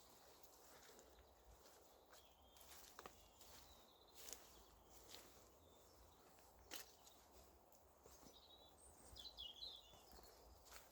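Near silence: faint outdoor ambience with a few soft scattered footstep-like ticks, and a bird chirping briefly near the end.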